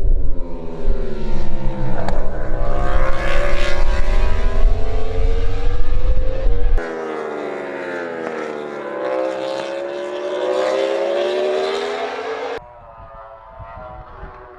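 A racing engine at speed, its note dropping as it slows and then climbing again as it accelerates out, twice over. The first few seconds are loudest, with a heavy low rumble under the engine, and the sound jumps to a quieter, more distant engine note twice.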